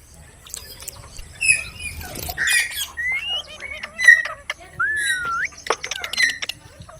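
Pet parrot squawking, with a string of short harsh calls and whistled notes that glide up and down, mixed with sharp clicks.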